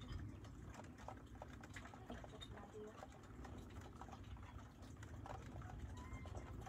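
Faint rain pattering and dripping, many irregular small ticks, over a steady low rumble.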